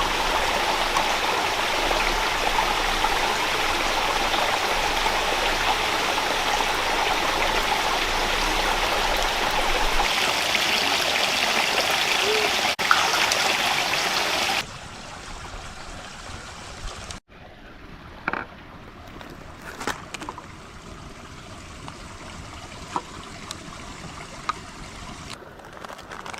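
A rocky rainforest stream rushing steadily, cut off abruptly about two-thirds of the way through. After that, a much quieter background of faint running water with occasional small taps and knocks.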